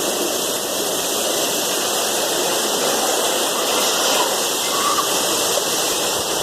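Heavy rain mixed with hail falling steadily, an even, dense hiss.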